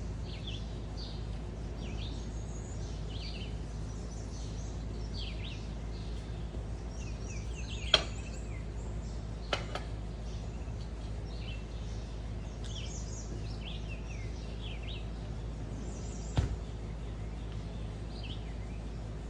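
Small birds chirping over and over, each chirp short and falling in pitch, over a steady low background rumble. Three sharp clicks cut in, at about 8 seconds, a second and a half later, and near 16 seconds; they are the loudest sounds.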